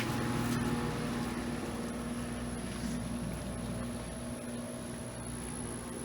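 Air conditioner running with a steady mechanical hum, slowly getting quieter.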